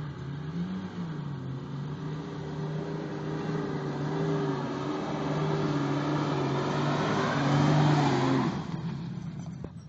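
Off-road 4x4's engine running hard under load, its pitch rising briefly about a second in, growing louder over several seconds to a peak near the end, then dropping off suddenly.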